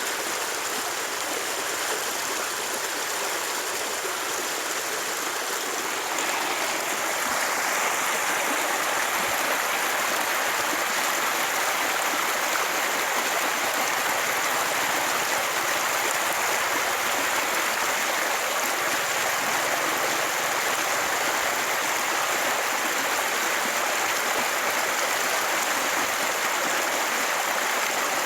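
Steady rushing noise, like running water, which gets a little louder about six seconds in.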